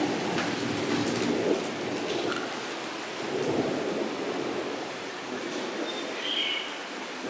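Steady rain falling on a puddle and wet ground, with scattered individual drop splashes. The hiss swells and eases every second or two. A brief high chirp comes about six seconds in.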